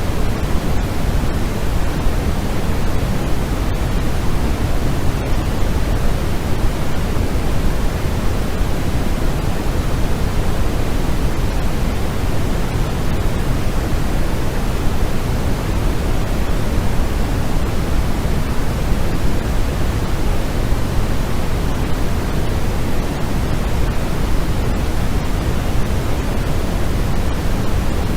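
Steady electronically generated sleep noise: an even, unbroken hiss with more weight in the low end than the high, like pink noise.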